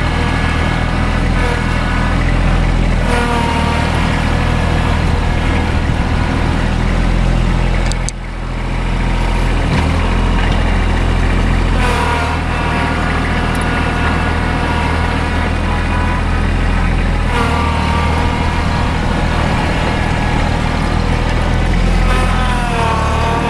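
Tractor engine running steadily under load while pushing snow with the front bucket, with a brief dip in level about eight seconds in.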